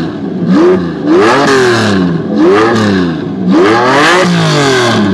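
Lamborghini Murcielago's V12 on straight pipes being revved hard over and over, the note climbing and dropping back about once a second.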